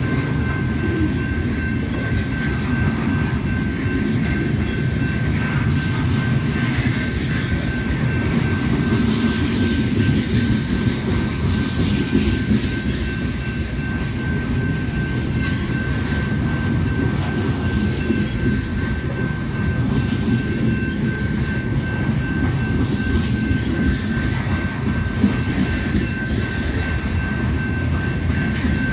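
Freight train of covered hopper cars rolling steadily past, a continuous low rumble with wheel clatter on the rails and a thin steady high-pitched tone over it.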